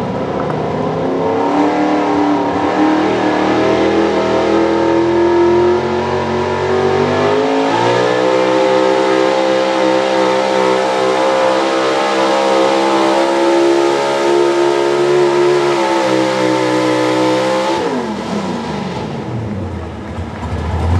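Pro Stock 4x4 pulling truck's engine at high revs during a sled pull. Its pitch steps up about eight seconds in and holds steady. It winds down about eighteen seconds in as the driver comes off the throttle at the end of the run.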